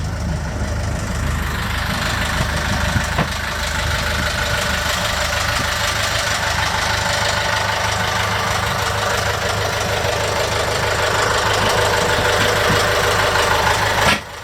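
Perkins Sabre marine diesel engine idling steadily after a cold start, running clean with no smoke.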